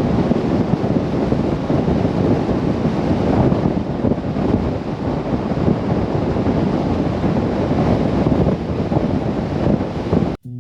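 Steady rushing wind and road noise from a moving truck, buffeting the microphone. It cuts off suddenly near the end.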